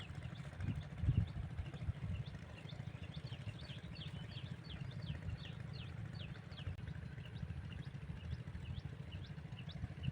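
Many small birds chirping in quick, short falling notes over a low, steady, rhythmic throb, which is plausibly the small single-cylinder diesel engine of the water pump running.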